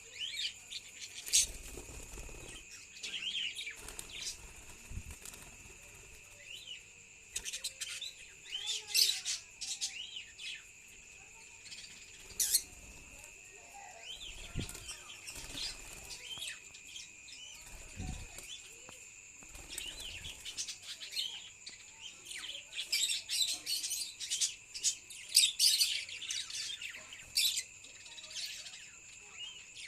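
Budgerigars in breeding cages chirping and chattering in scattered bursts, busiest twice, over a steady high-pitched whine.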